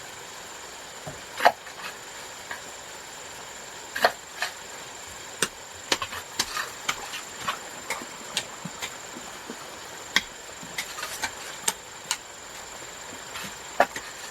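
Sharp, irregular knocks and taps, about one or two a second, the loudest about a second and a half in. They sit over a steady high-pitched insect drone.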